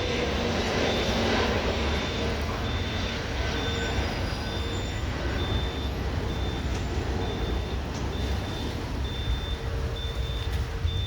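A vehicle's reversing alarm beeping at an even pace, about one and a half beeps a second, over a steady low engine rumble.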